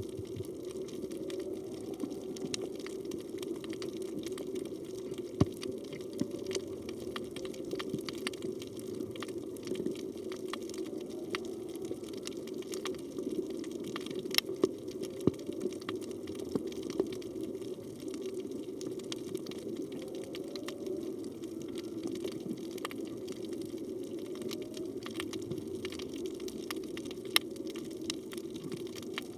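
Underwater reef ambience: a steady low rush of water with scattered sharp clicks. Every few seconds comes a faint short rising call, humpback whale song.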